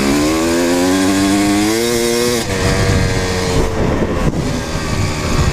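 Kawasaki KX250 two-stroke single-cylinder dirt bike engine revving hard under acceleration, its pitch climbing for about two and a half seconds. It then drops off into a rougher, uneven sound as the throttle comes off.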